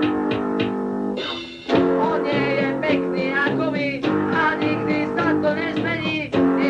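Amateur punk band playing a song with guitar chords and sung vocals, recorded lo-fi on a dictaphone. The playing breaks off briefly about a second and a half in, then comes back.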